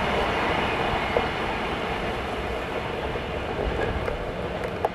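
Express passenger train running through a station, its coaches rumbling over the track and fading steadily as the tail end pulls away, with a couple of short clicks from the wheels.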